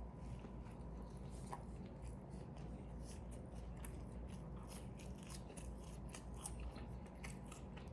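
A person chewing a Double Big Mac close to the microphone: a faint, quick, irregular run of small mouth clicks and smacks.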